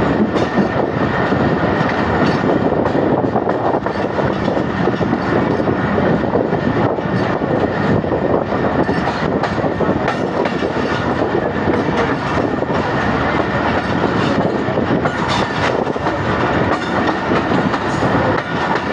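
Pakistan Railways passenger train running at speed, heard from an open coach doorway: a loud, steady rattle and rumble of the wheels on the rails, with scattered knocks over the rail joints.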